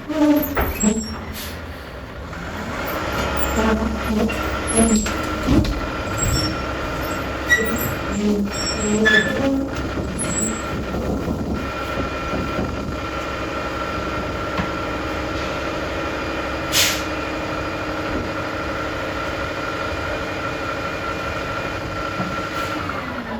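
Roll-off dumpster truck working, with a steady mechanical whine under it. Metal clanks and knocks come in the first ten seconds, a short hiss like an air brake release about 17 seconds in, and the whine winds down right at the end.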